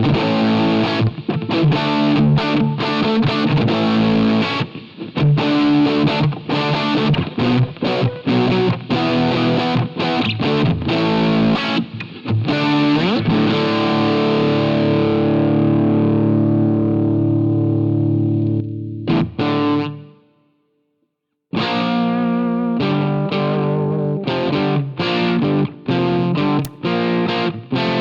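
Electric guitar played through a Jeds Peds AndyChad overdrive pedal, a Nobels ODR-1 clone, giving a driven tone. Picked riffs and chords give way about halfway to a chord left ringing for several seconds until it dies away. After a short silence the riffing starts again.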